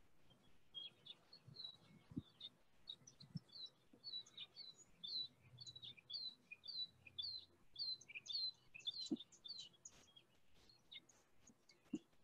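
A small bird chirping: a long run of short, high chirps, about three a second, that stops near the end.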